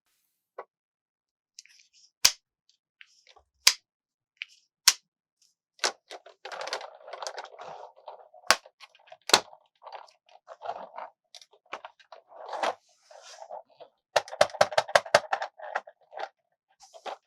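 Hands tapping and handling a plastic toy car and its packaging: single sharp clicks every second or so, rustling in between, and a quick run of taps near the end.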